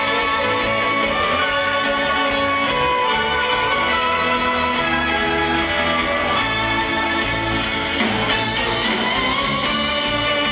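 Live band playing a loud sixties-style instrumental, a sustained lead melody over bass and drums, with a sweeping pitch glide about eight seconds in.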